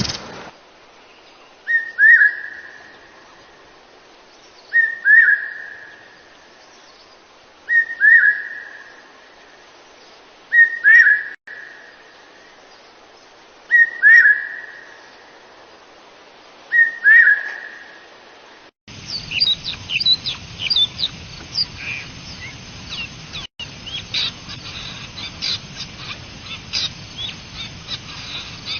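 A bird repeating a short whistled call six times, about every three seconds. About 19 seconds in, a different recording takes over, with many quick chirps over a background hiss.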